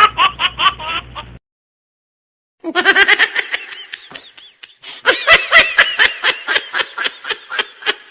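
Quick, rhythmic bursts of laughter that cut off abruptly about a second and a half in. After a second of silence, a second stretch of rapid laughter-like pulses begins.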